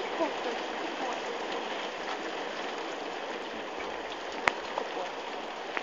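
Heavy rain pouring down in a steady hiss, with one sharp click about four and a half seconds in.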